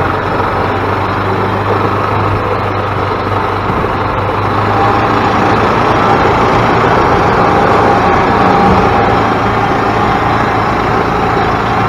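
Freshly rebuilt Yamaha G16 golf cart's single-cylinder four-stroke engine running smoothly under load as the cart drives, a steady drone with a faint whine, getting a little louder in the middle.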